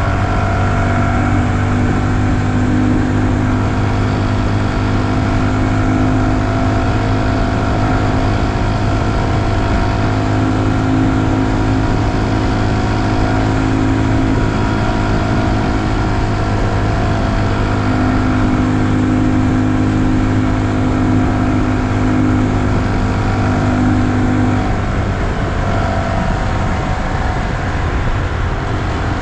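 2020 Honda Super Cub's single-cylinder engine running at a steady cruising speed under a rider, with road noise; the engine note changes slightly near the end.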